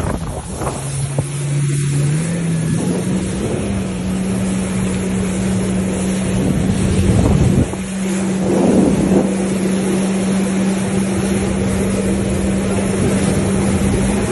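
Jet ski engine running, its pitch stepping up about two to three seconds in and then holding steady, over a constant rush of noise with a couple of louder swells past the middle.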